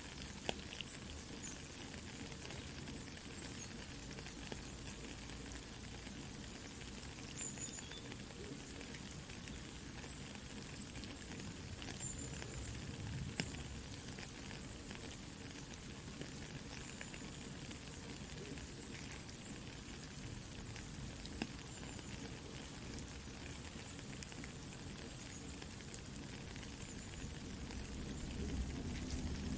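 Soft steady rain hiss mixed with a campfire crackling, with scattered sharp pops from the fire.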